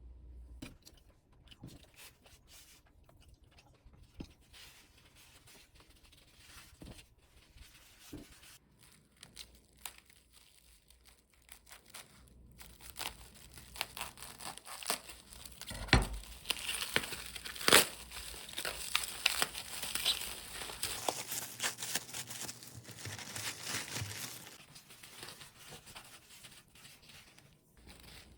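Crinkling and tearing sounds, like plastic or paper being handled. They are sparse at first, grow dense and louder through the middle with a couple of sharp snaps, then die down.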